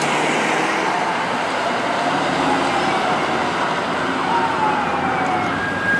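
Fire truck siren sounding over road and engine noise, with faint sliding tones and a steady high tone coming in near the end.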